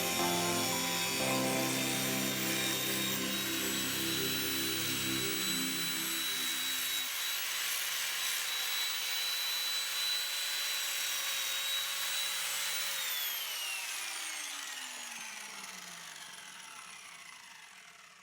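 Electric power tool running steadily with a high whine, then switched off about two-thirds of the way in, its pitch falling as it spins down over several seconds to a stop.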